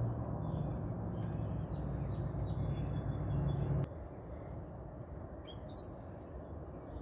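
Small songbirds chirping at seed feeders, with short high chirps throughout and one sharp sweeping call near the end. A loud low hum runs underneath for the first four seconds and then cuts off suddenly.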